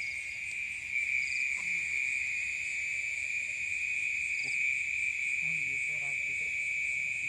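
Night insect chorus of crickets: a steady unbroken trill, with a higher, faster pulsing call from other insects over it.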